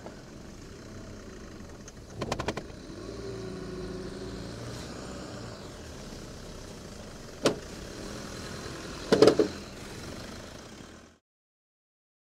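Vehicle engine running steadily, with three short sharp knocks, the loudest near the end; the sound cuts off suddenly shortly before the end.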